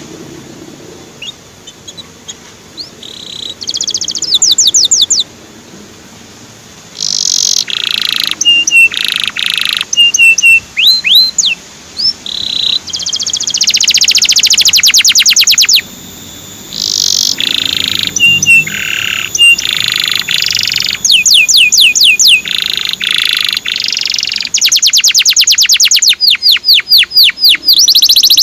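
Male canary singing a tutor song: phrases of very fast, high trills and repeated slurred whistles, broken by short pauses.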